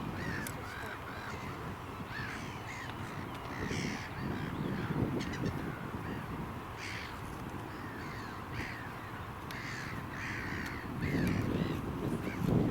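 A flock of birds calling: many short, harsh calls overlapping one after another, over a steady low rumble that grows louder near the end.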